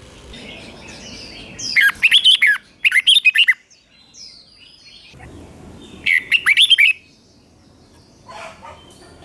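Red-whiskered bulbul singing: three short bursts of quick, whistled notes that slide up and down. The first two come close together and the third a few seconds later.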